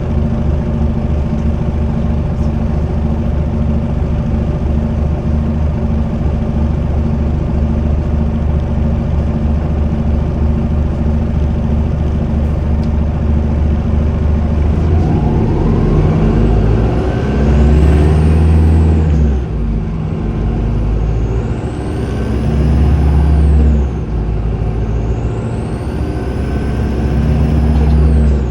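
Volvo B5LH hybrid bus's four-cylinder diesel engine running steadily, then pulling harder about halfway through. Its turbocharger whistles three times, each high whistle rising and then falling in pitch.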